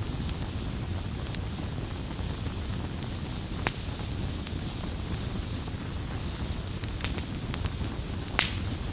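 Campfire crackling, with sharp pops of burning wood scattered irregularly through it, the loudest a little after halfway and another near the end, over a steady low rumble.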